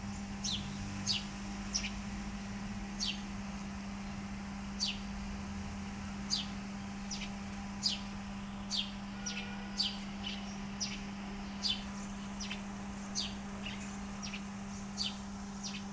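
A bird giving short, high, falling chirps again and again, irregularly, about one every second, over a steady low hum.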